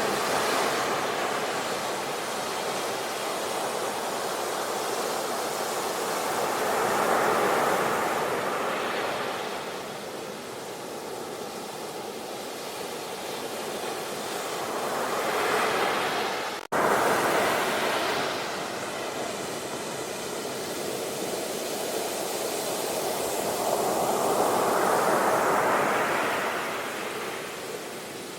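Ocean waves breaking and washing up a shore, the surf swelling and fading in turn every several seconds. A sudden momentary dropout about two-thirds of the way through.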